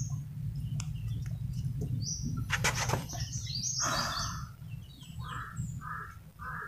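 Birds calling: high chirps, then a short call repeated about twice a second in the second half, over a low steady hum. A few light clicks sound near the middle as the piston and its rings are handled.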